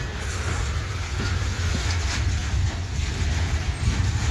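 Freight train cars rolling past: a steady low rumble with a few faint clicks from the wheels on the rail.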